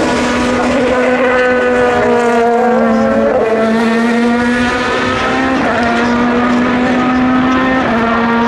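Several race car engines running at high revs at once, their pitches overlapping, sliding down around the middle and stepping up again a few times as the cars change gear.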